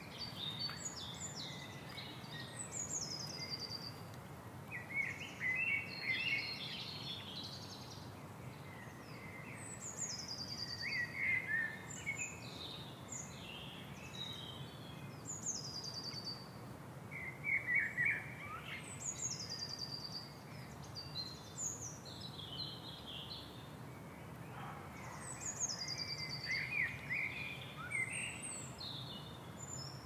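Several wild birds calling and singing. One repeats a high, quick phrase that falls in pitch every few seconds, among scattered shorter chirps, over a steady low background noise.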